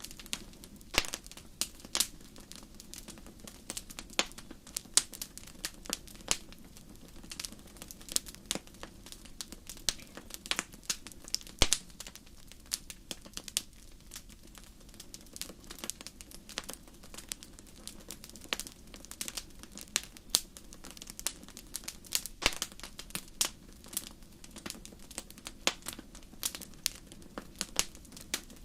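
Wood fire in a fireplace crackling: irregular sharp pops and snaps, some louder than others, over a steady low rush of the flames.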